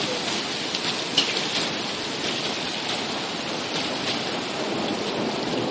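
Heavy rain falling steadily and pattering on surfaces, with a few faint drop ticks.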